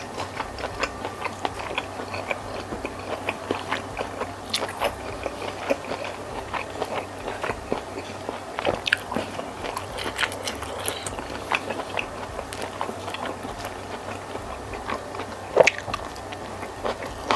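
Close-miked chewing of a mouthful of squid and rice, full of small wet mouth clicks and smacks. One louder smack comes near the end.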